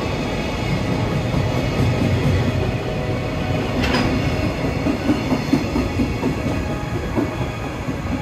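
Empty container flat wagons of a freight train rolling past, with a steady rumble of wheels on rail. Several sharp wheel knocks over rail joints come in the second half as the last wagons pass and move away.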